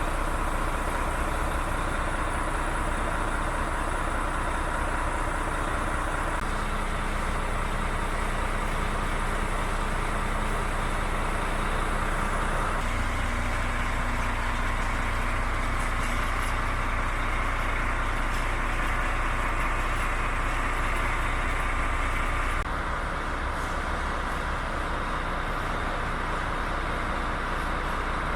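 DAF CF75 truck's diesel engine running steadily at idle, its tone shifting a few times.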